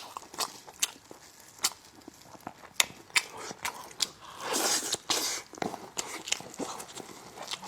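Close-miked eating of braised lamb chops: wet chewing and gnawing meat off the bone, with scattered sharp mouth clicks and smacks and a longer, louder stretch of chewing a little past halfway.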